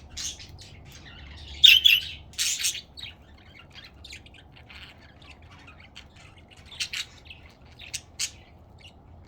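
Budgerigars chirping and squawking, with a burst of loud harsh squawks about two seconds in and a few sharp chirps near the end.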